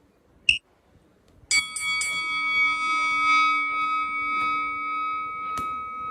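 A bell struck once about a second and a half in, ringing on with several steady overtones, after a moment of near silence with a single click.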